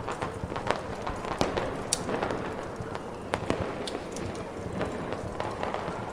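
Fireworks popping and crackling at irregular intervals over the steady rushing noise of snowstorm wind, in a layered fireplace-and-snowstorm ambience mix.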